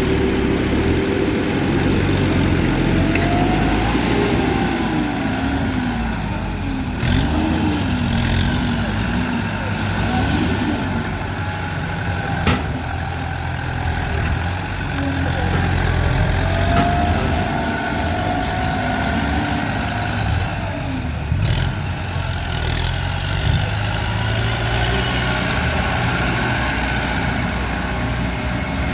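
Diesel engine of a Kubota M108S tractor working as it pushes wet soil, its pitch rising and falling with the load, with a few sharp knocks.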